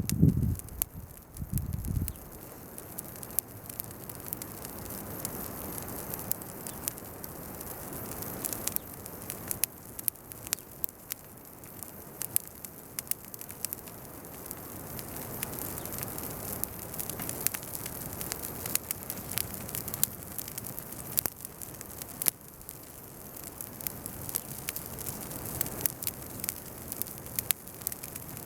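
Bonfire of weeds and chestnut burrs burning, with many sharp crackles and pops over a steady hiss of flame. A few low thumps come in the first two seconds.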